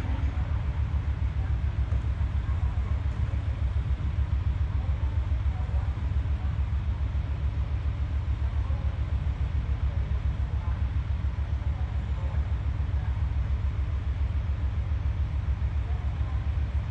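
KiHa 40 diesel railcar engine idling with a steady low throb.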